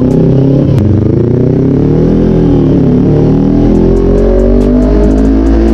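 Kawasaki Z400 parallel-twin engine through a Toni Orion slip-on muffler, loud, its pitch dipping and rising twice with the throttle, then holding steadier.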